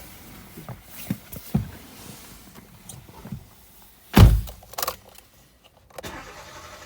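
Clicks and small knocks from handling a Kia Rio's fittings, then one heavy low thud about four seconds in, followed by a couple of lighter knocks.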